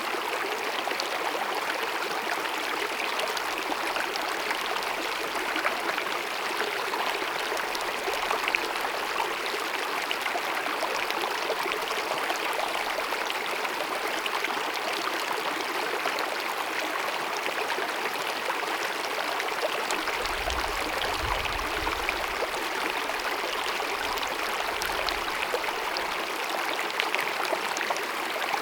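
Small glacier-fed mountain meadow stream babbling and cascading steadily.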